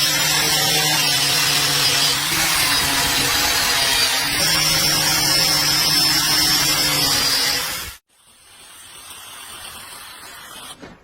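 An electric power tool running steadily on metal with a motor hum and an abrasive hiss. It cuts off suddenly about eight seconds in, leaving a quieter hiss.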